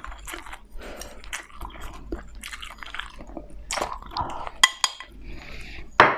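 Close-up mouth sounds of someone chewing and biting food: irregular wet smacks and crunches, with a sharper click near the end.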